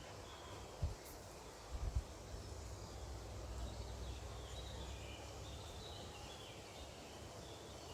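Songbirds chirping faintly in short repeated notes over a steady low rumble, with a couple of brief low thumps about one and two seconds in.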